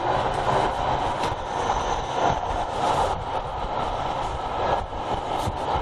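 E5 series Shinkansen running, heard inside the passenger car: a steady rumble and rush of wheels and air, with faint clicks through it.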